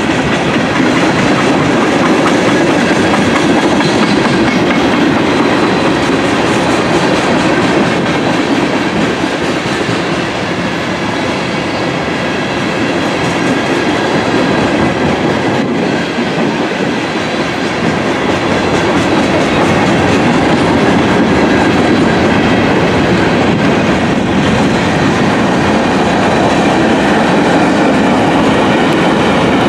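Railroad cars of a passing train rolling along the track, a loud, steady rumble and rattle of steel wheels on rail.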